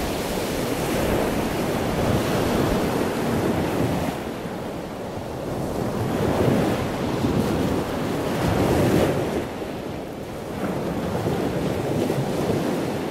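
Ocean surf washing in and out, a steady rushing of water that swells and fades every few seconds.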